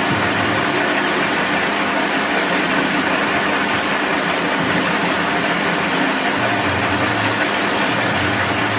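Steady mechanical running noise, like an engine or machine, holding an even level without pauses or changes.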